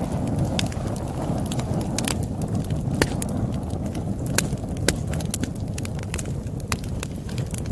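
Campfire crackling: irregular sharp pops and snaps from the burning wood over a steady low rumble of the flames, with a few louder pops about two, three and four and a half seconds in.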